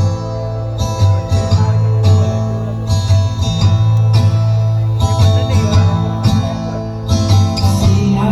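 Music played loud through a large DJ speaker system: a dense mix with heavy bass, a strummed guitar-like part and a steady beat of about one hit a second.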